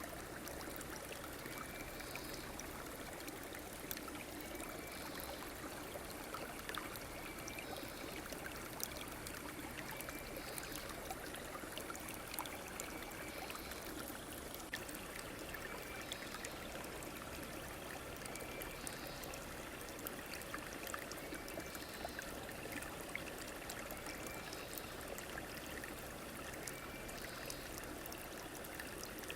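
River water running steadily over stones, an even rushing flow, with a short faint high chirp repeating every second or two.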